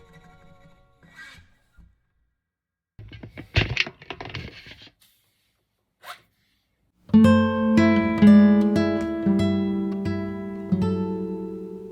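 Acoustic guitar background music: a note dies away, a short pause and a strummed passage, then picked notes over held low notes from about seven seconds in.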